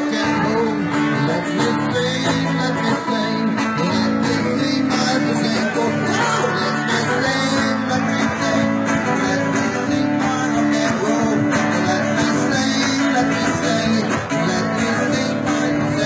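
Live band music with guitars playing steadily, between sung lines.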